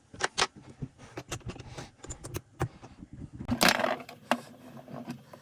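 Small metal hand tools and parts clinking and clicking against each other, a series of sharp clicks with a longer rattle about three and a half seconds in.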